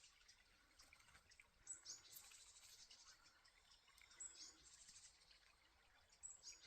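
Faint bird calls: a high two-note chirp, each note sliding down, repeated three times about two and a half seconds apart, over a faint high hiss.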